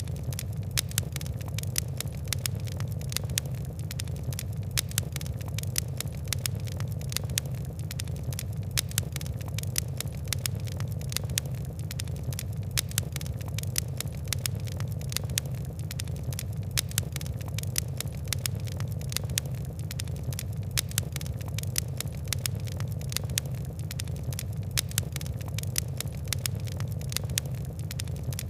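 Fire crackling: a continuous stream of small, sharp ticks and pops over a steady low rumble.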